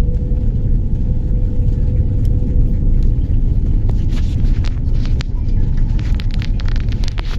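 Airliner cabin noise inside a Boeing 787 during landing: a loud, steady low rumble with a faint steady hum. From about halfway through come many short sharp clicks and rattles.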